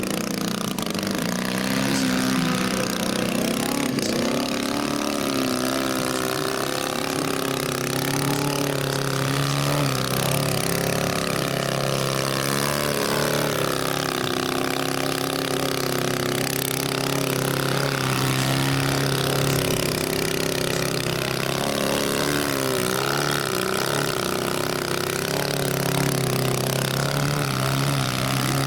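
Large-scale radio-controlled Fly Baby model aircraft's engine and propeller running steadily as it flies low passes, the pitch swinging up and down several times as it comes past and goes away.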